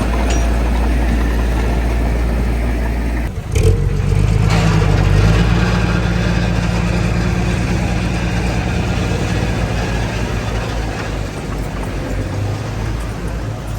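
Heavy diesel engine of earthmoving machinery running. A little over three seconds in the sound briefly drops out and there is a knock, then the engine note rises and holds steady.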